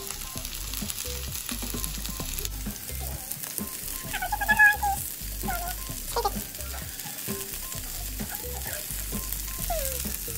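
Broccoli frying in a pan with butter, a steady sizzle and crackle as slices of butter are dropped in. A short high-pitched wavering cry cuts in about four and a half seconds in.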